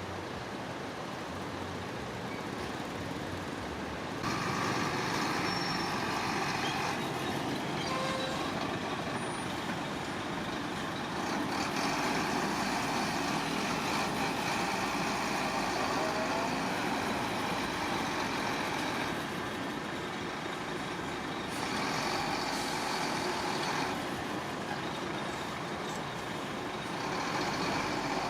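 Heavy construction machinery working: a big diesel engine runs steadily, swelling louder under load several times, in stretches lasting a few seconds each.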